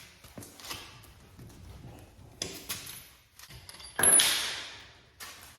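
Lug nuts being worked loose from a car wheel with a hand wrench: scattered metal clicks and scrapes, then a loud metallic clank about four seconds in that rings briefly.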